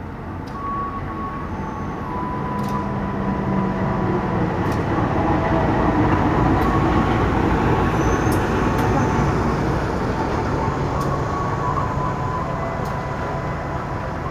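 Diesel-electric locomotive and its passenger coaches rolling into a station and passing close by. The rumble builds to its loudest about six to eight seconds in, as the locomotive goes past, then eases off slowly as the coaches roll by.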